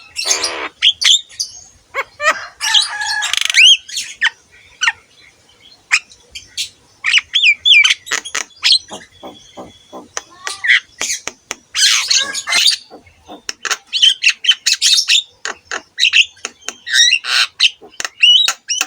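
Javan myna singing a busy, varied song: rapid sharp clicks and short whistled notes with quick pitch glides, broken by several harsh, raspy squawks.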